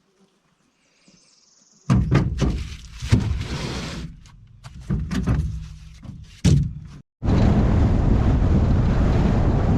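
Several loud thumps and knocks in a row, starting about two seconds in, then an abrupt switch to the steady noise of a vehicle driving.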